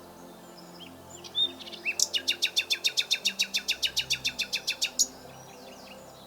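Common nightingale singing: a few short high whistled notes, then a fast run of repeated notes, about ten a second, that lasts some three seconds and stops abruptly.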